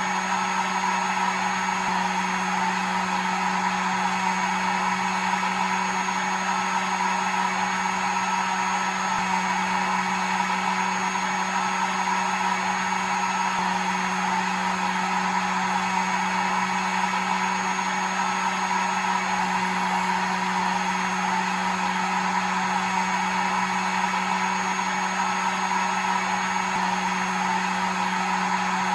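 Electric hair dryer running continuously at a constant setting: a steady blowing hiss over a low motor hum, unchanging throughout, played as white noise to lull a baby to sleep.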